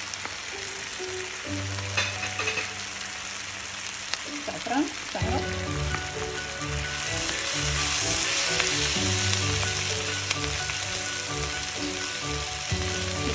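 Diced onions and bell peppers sizzling in oil in a frying pan, stirred with a wooden spoon. The sizzle grows louder about seven seconds in.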